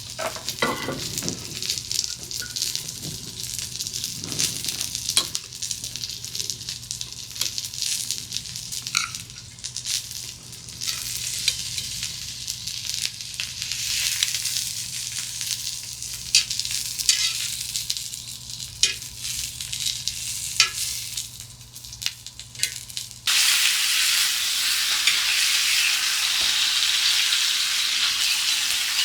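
Food sizzling as it fries in hot fat, with frequent sharp pops and spatters. Near the end it cuts to a louder, denser, steady sizzle.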